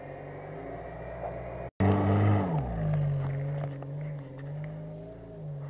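Off-road SUV engine running steadily. After a cut it comes in louder, its revs falling away about two seconds in, then settles to a steady note as the vehicle pulls away over the grass.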